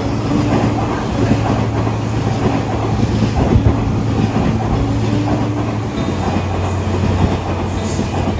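Taiwan Railway EMU3000 electric express train running through the station without stopping, close alongside the platform: a loud, steady rush of wheels on rail with repeated clicks and a low steady hum under it.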